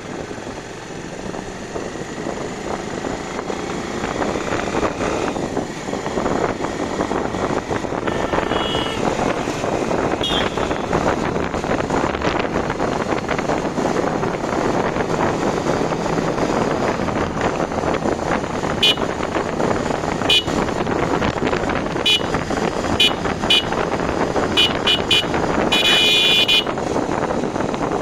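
A vehicle on the move, with a steady rumble of engine, road and wind noise that grows louder over the first few seconds. Over the last third come several short horn beeps, and near the end one longer honk.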